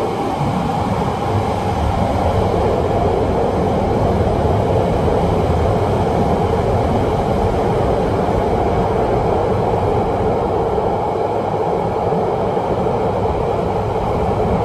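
Steady rumble of a car-carrying shuttle train running on the rails, heard from inside a car loaded on its covered wagon.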